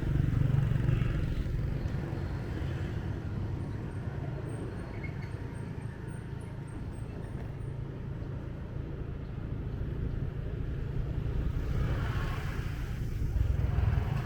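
Motorbike engine running steadily while riding, with tyre, road and street-traffic noise around it; it grows louder about twelve seconds in.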